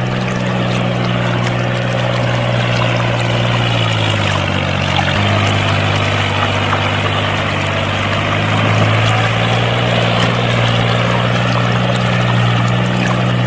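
Small electric motor of a handmade toy machine running steadily with a hum, its pitch dropping a little about four seconds in and rising back near the end.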